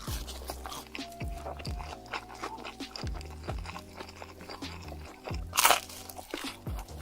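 Close-miked crunchy bites and chewing of food, with the loudest crunch about five and a half seconds in, over background music with a deep bass beat.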